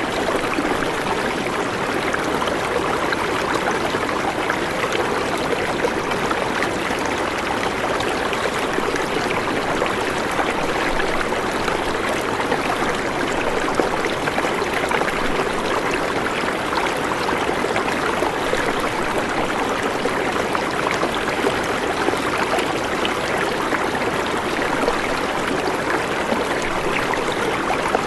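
Steady rush and trickle of running water, an even splashing noise that does not change in level.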